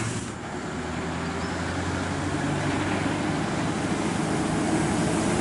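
Heavy truck's diesel engine running under load, its steady low drone with tyre and road noise growing gradually louder as the truck approaches.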